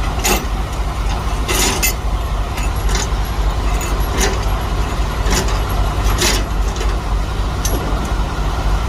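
Semi-truck diesel engine idling steadily, with sharp metallic clicks and rattles every second or so.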